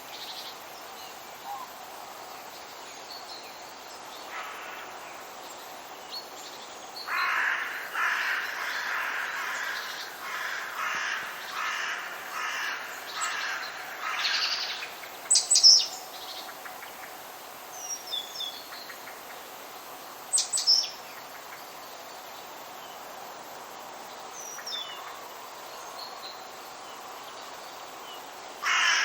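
Forest birds calling: one bird gives a run of harsh, repeated calls, about one a second, from about seven to fifteen seconds in. Smaller birds add sharp high calls and thin chirps over a steady faint hiss.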